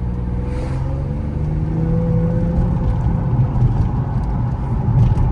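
Nissan VQ V6 car engine revving under throttle, its pitch rising over the first few seconds and then holding at a steady high rev. The tyres are not gripping: the car is spinning its wheels on snow.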